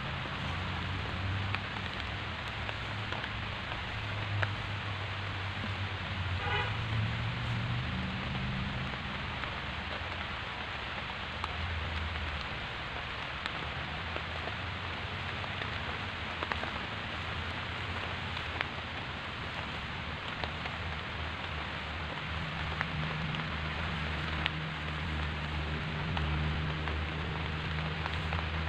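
Heavy rain falling steadily on leaves and grass, with a low drone coming and going underneath.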